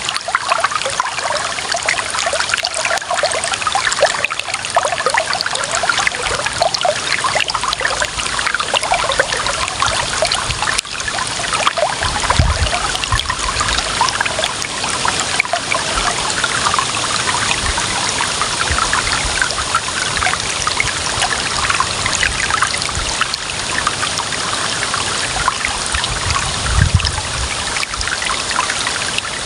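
Clear water running and trickling steadily, a small stream or flow splashing over stones, with two brief low rumbles partway through and near the end.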